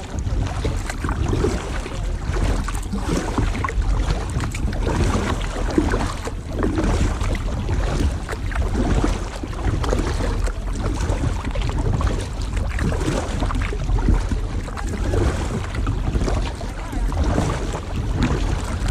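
Wind rumbling on the microphone while a kayak is paddled across open water, with water washing and splashing around the hull.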